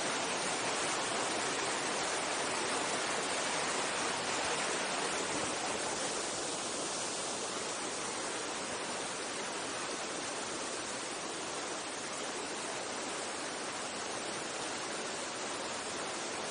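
Mountain stream water rushing steadily over rocks, a little quieter after about six seconds.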